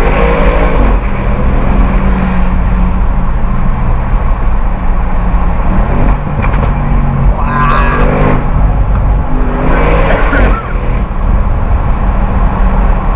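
Audi RS6 C7's twin-turbo 4.0-litre V8 running hard under acceleration, loud and steady, with two brief dips in loudness near the middle and about two-thirds of the way through.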